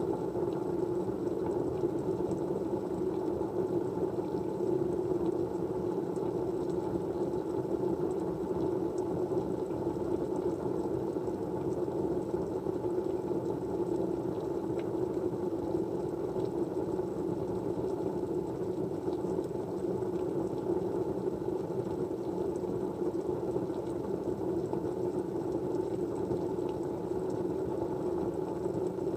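Steady, even white-noise rush, strongest in the low-middle range, unchanging throughout, with a few faint ticks.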